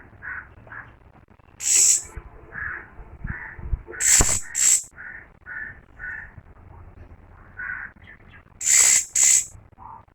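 A robin giving loud, harsh hissing screeches, five in all, the last four in two close pairs. Short, softer chirps come between them.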